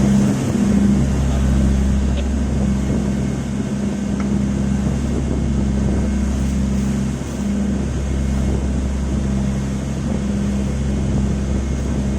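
Boat engine running steadily alongside a tanker: a low, even drone with a humming tone above it that cuts in and out every second or two.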